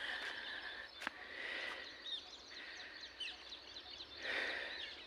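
A large flock of parrots calling, with many short high chirps and squawks overlapping continuously over a background hiss.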